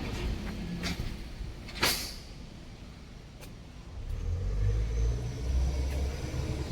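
Isuzu Giga heavy-duty wrecker truck: two short air hisses, then the low rumble of its diesel engine running from about four seconds in.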